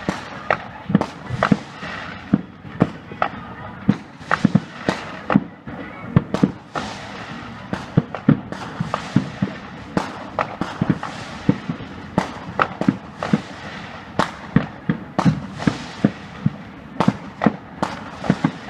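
Fireworks display: a rapid, continuous barrage of sharp bangs, several a second, over steady crackling.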